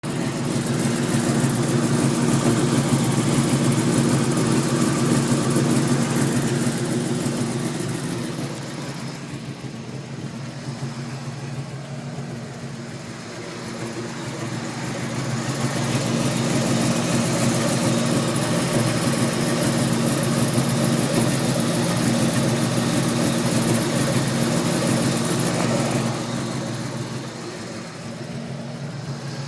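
2003 Mustang SVT Cobra's supercharged 4.6-litre V8 idling steadily with a ticking noise that the owner calls weird. The sound grows fainter for a stretch a third of the way in, comes back up, and fades again near the end.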